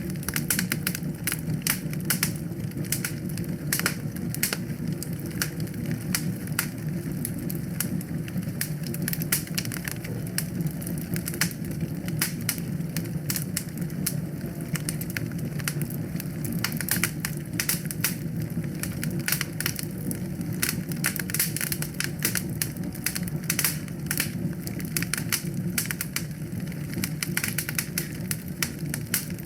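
Wood fire burning steadily in a fireplace, with a low rumble of flames and frequent irregular crackles and pops from the burning logs.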